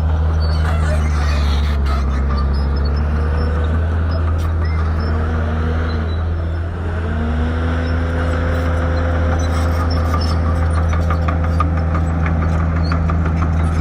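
Shantui bulldozer's diesel engine running steadily, its pitch sagging briefly and climbing back about halfway through.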